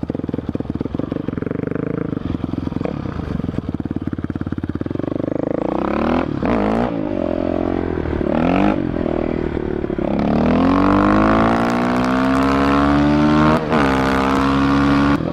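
Motorcycle engine idling with an even putter, blipped twice, then accelerating in a long rising pull that levels off and holds a steady high pitch.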